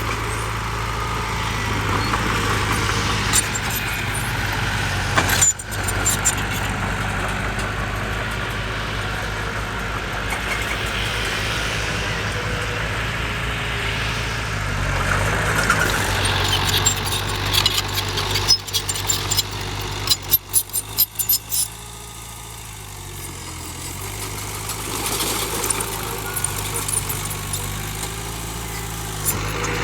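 Heavy diesel engine of earthmoving machinery running steadily. About two-thirds of the way through comes a burst of metallic clanking and rattling, and then the engine sound drops back and slowly builds again.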